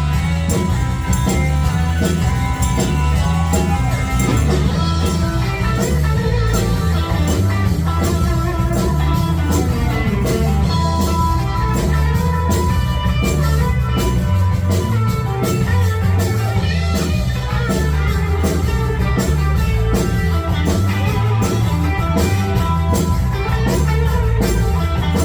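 Live rock band playing, with electric guitar, bass and drums in a steady beat.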